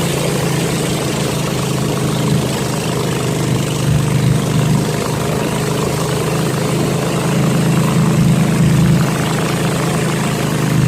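Small boat's engine running steadily with a constant drone as the boat moves along a canal.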